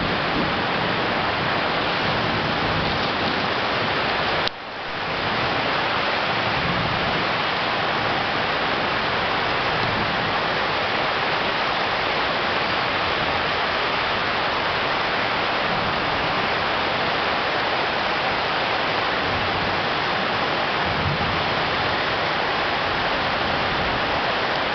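Torrential rain pouring down in a steady hiss, with running storm water in it. The sound briefly drops out about four and a half seconds in, then returns.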